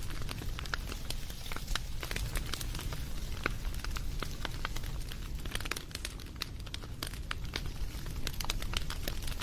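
Wood campfire crackling steadily, with frequent sharp pops and snaps over a low rumble of burning.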